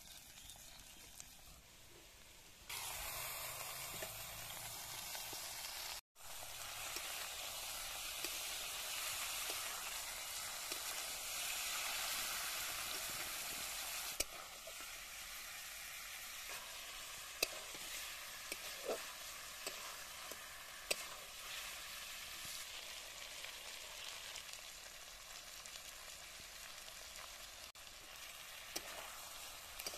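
Pork chunks and onions sizzling in hot oil in a steel karahi over a wood fire, stirred with a metal spatula that clicks against the pan now and then. The sizzle gets suddenly louder a few seconds in and breaks off for an instant about six seconds in.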